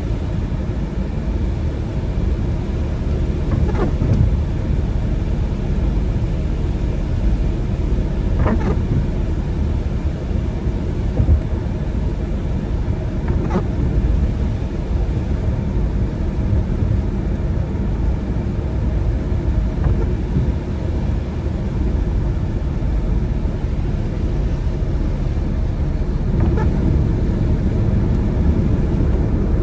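Car driving on a wet road: a steady low rumble of engine and tyres. A few short, higher sounds come and go every four to five seconds.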